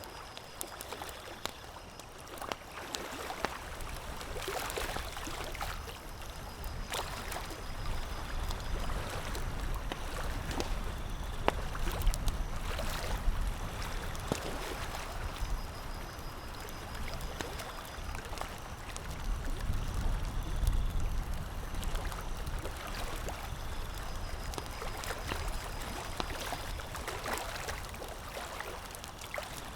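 Campfire crackling, with scattered sharp pops over a steady rushing wash. A low rumble swells up twice.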